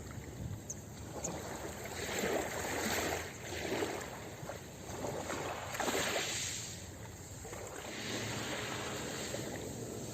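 Ocean waves washing on a beach: surf hiss that swells and falls back in several surges.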